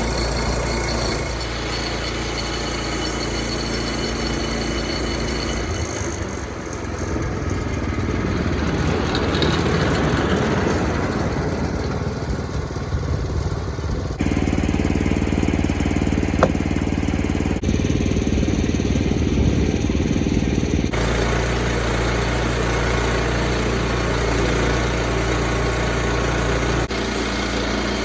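Small sawmill's engine running under load as it mills pine, in a steady drone that changes abruptly several times.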